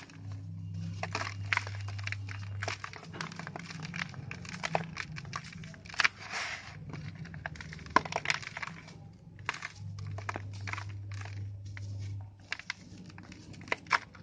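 Dried sand-cement shapes being crushed and crumbled: irregular crisp cracks and crunches with gritty crumbling in between, the sharpest snaps about six and eight seconds in. A low hum sounds underneath at times.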